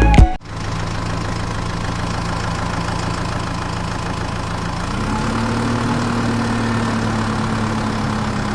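An engine idling steadily; its pitch steps up slightly about five seconds in and holds there.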